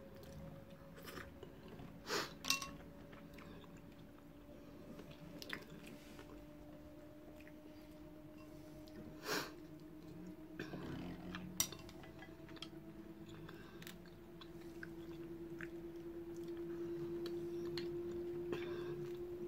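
Chewing and mussel shells being handled by hand, with a few sharp clicks of shell on shell. Behind it a steady low hum slowly rises in pitch and grows louder near the end.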